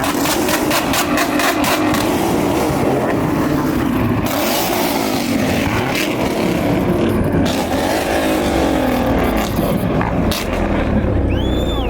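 Car engine revving hard, its pitch climbing and falling again and again, with a rapid crackle through the first couple of seconds.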